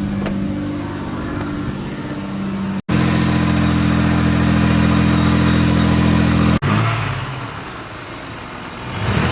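1999 Ford Taurus engine running with its leaking exhaust freshly wrapped in repair tape, steady in two stretches broken by two sudden cuts. After the second cut it is quieter and less even, with a short rise and fall in pitch near the end.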